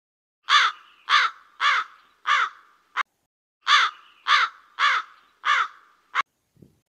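A bird's harsh cawing calls in two runs of four, about two a second, each run ending with a short clipped call.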